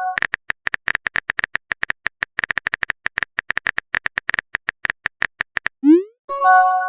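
Rapid, irregular short electronic beeps at one pitch, a texting app's keystroke sound effect, go on for about five and a half seconds. Near the end come a quick rising pop and a bright chime of several held tones, a message-sent alert.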